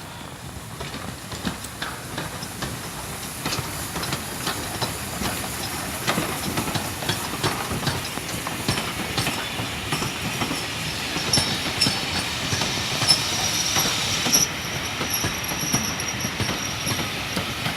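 Train rolling along the track, its wheels clattering over the rail joints and growing slowly louder, with a thin high wheel squeal coming and going from about two-thirds of the way in.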